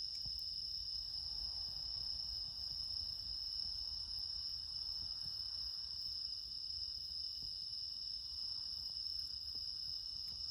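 Chorus of crickets singing in a steady, unbroken high-pitched trill, with a faint low rumble underneath.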